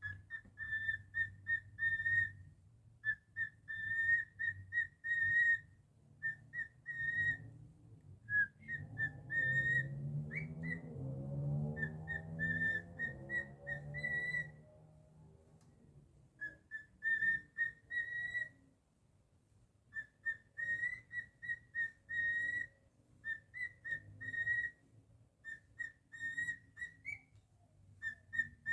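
Cockatiel whistling in runs of short, rapid notes at one steady high pitch, broken by brief pauses. A lower humming sound runs underneath for several seconds in the middle.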